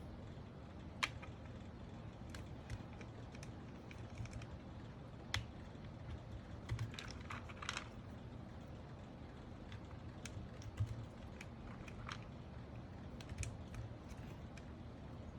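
Scattered small plastic clicks and taps of mechanical keyboard parts being handled and fitted during assembly, irregular with a few sharper clicks, over a faint steady low hum.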